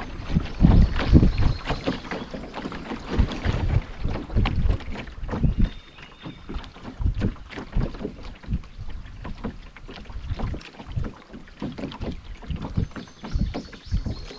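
A canoe being paddled on a river: irregular splashes and swishes of the paddle in the water, with small knocks and dripping around the boat, some of it heavy and low from wind on the microphone.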